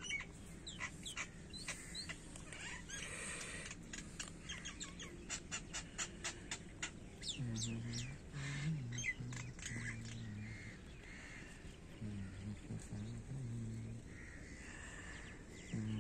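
Birds chirping outdoors in a quick, busy series of short calls, thickest in the first half, with a low voice in the background over the second half.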